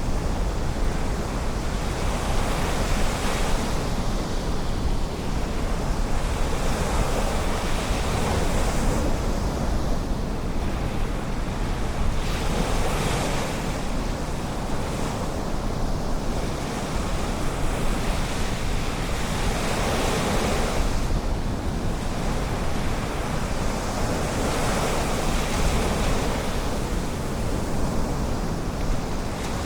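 Ocean surf washing ashore in swells every few seconds, over a steady low rumble of wind on the microphone.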